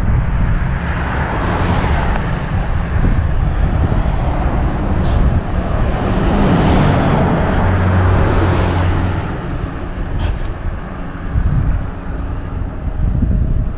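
Road noise heard from a helmet-mounted camera while cycling: a constant low rumble, with a motor vehicle passing and swelling louder about six to nine seconds in.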